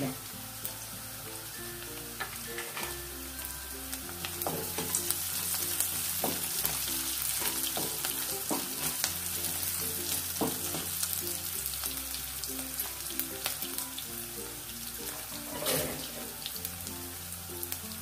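Onions, garlic and peanuts sizzling in oil in a nonstick kadai, stirred with a spatula that scrapes and knocks against the pan a few times. Light background music with steady held notes runs underneath.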